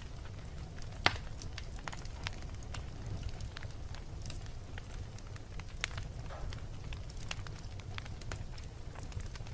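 Wood fire burning in a fireplace: a steady low rumble of the flames with frequent sharp crackles and snaps, and one loud pop about a second in.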